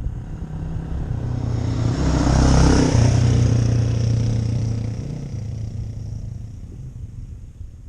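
A motorcycle riding past: its engine note grows louder to a peak about two and a half seconds in, then fades away as it moves off.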